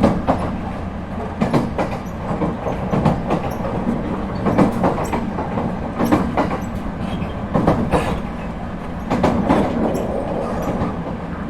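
Running sound inside an ET127 series electric multiple unit: a steady low rumble with wheels clacking over rail joints in pairs about every one and a half seconds.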